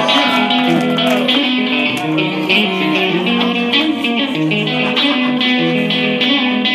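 Live band playing an instrumental passage led by guitar, with a steady rhythm and no singing.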